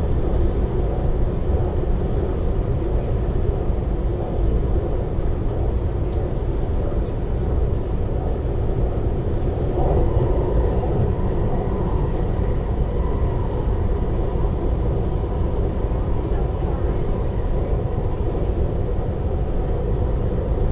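Cabin noise inside a moving MTR IKK-Train electric multiple unit: a steady low rumble of wheels on rail with running noise.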